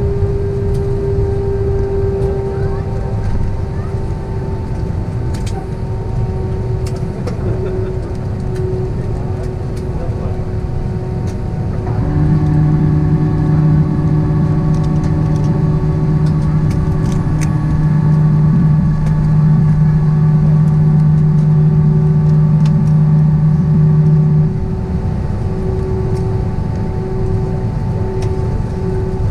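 Airbus A320-200 jet engines and airframe noise, steady with a few constant tones. About twelve seconds in, a louder low hum with overtones sets in suddenly, holds steady for about twelve seconds, then cuts off.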